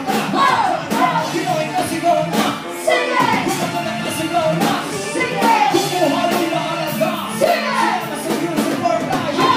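Live band playing a rock song, with a lead singer over drums and instruments.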